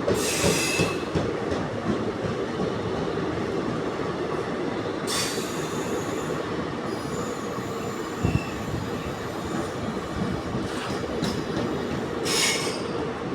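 A train rolling past on the track, its wheels on the rails making a steady rumble. Short high wheel squeals come three times: at the start, about five seconds in and near the end. A single dull thud comes a little after eight seconds.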